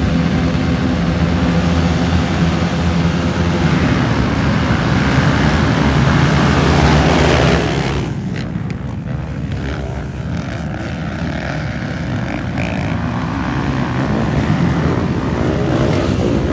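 Several motocross dirt bikes racing, engines revving hard and loud. About eight seconds in the sound drops and thins as the bikes pull away, then builds a little again near the end.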